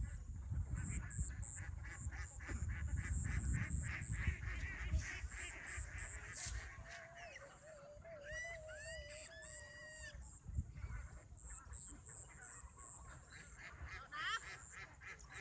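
Birds calling: a rapid run of short calls through the first half, then a few rising call notes about eight to ten seconds in.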